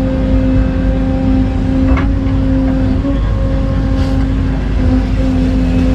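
Excavator's diesel engine running steadily with a continuous hydraulic whine, and a short click about two seconds in.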